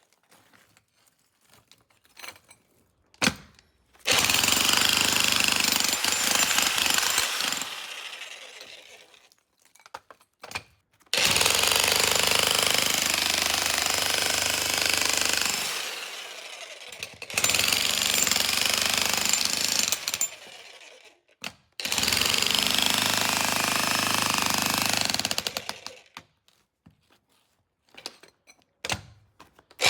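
1700 W electric demolition hammer (DESHI Z1G-DS-65C) hammering into old concrete in four separate runs of a few seconds each. Each run dies away as the trigger is let go, with short pauses and a few small knocks between them.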